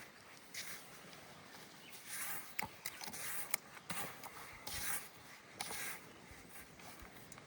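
A person moving about in dry vegetation: irregular rustling and crunching with a few sharp clicks.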